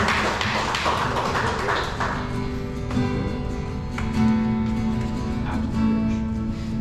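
Acoustic guitar playing single plucked notes over steady held notes. A rushing noise fades out over the first two seconds.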